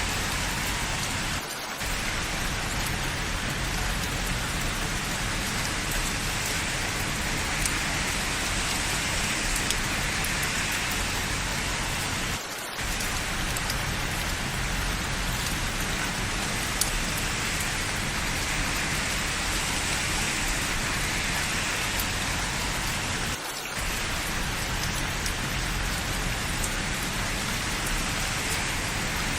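Steady rain falling, an even, dense hiss with scattered drop ticks. The sound dips briefly three times, about eleven seconds apart.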